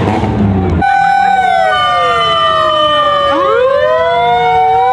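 Several emergency-vehicle sirens wailing at once, their pitches sliding down and up and crossing each other, beginning abruptly as drum-heavy music cuts off just under a second in.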